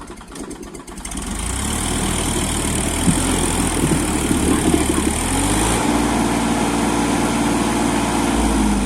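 New Holland 3037 tractor's three-cylinder diesel engine ticking over, then revving up about a second in and running hard and steadily under load while pulling a full load of stone.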